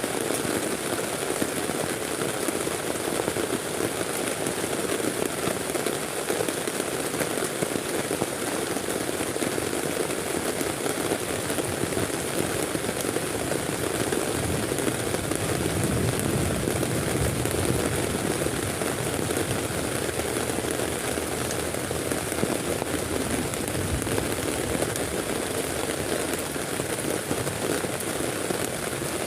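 Heavy rain falling steadily, a dense unbroken hiss that swells a little heavier for a few seconds about halfway through.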